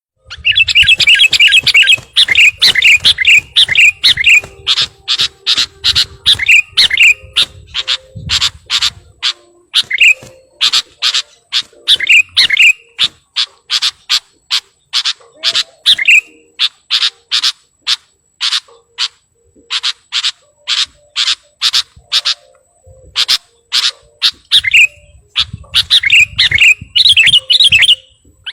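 Sooty-headed bulbul calling: a long run of sharp, loud chirps at about two a second, with burbling warbled phrases at the start and again near the end, in full song as if answering a rival.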